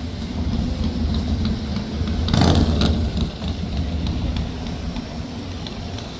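A car engine running steadily, with a brief loud rush about two and a half seconds in and a few faint clicks.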